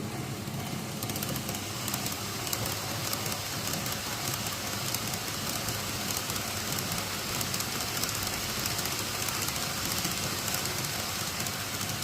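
N-gauge model train running at speed on model track: a steady rolling rush with fast, fine clicking of the wheels over the rail joints, growing a little louder about a second in as the train comes closer.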